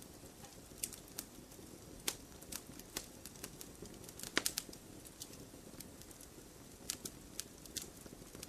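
Wood fire in a fireplace crackling: irregular sharp pops and snaps over a soft steady hiss, with a quick cluster of louder pops about halfway through.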